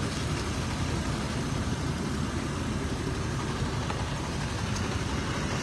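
Toyota Land Cruiser engine idling steadily, heard from above the open engine bay.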